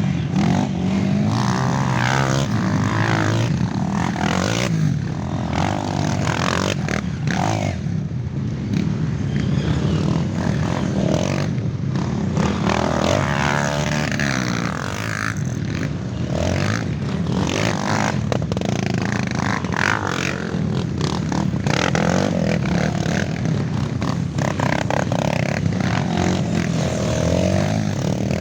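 Several dirt bike engines revving, their pitch rising and falling continually as they ride the trail.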